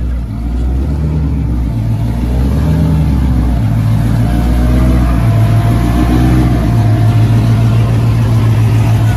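Car engine and exhaust running loud and close. The engine note steps up about halfway through and holds higher as the revs rise, getting louder.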